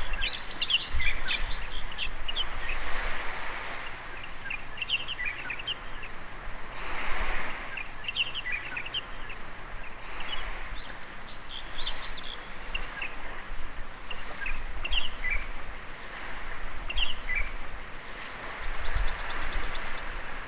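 Small birds chirping in quick repeated phrases over the steady wash of waves breaking on a beach, the surf swelling and fading every few seconds.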